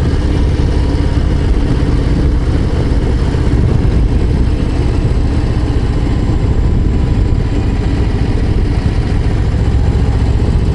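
Harley-Davidson Low Rider ST's Milwaukee-Eight 117 V-twin running at a steady road speed, a loud, even low exhaust note.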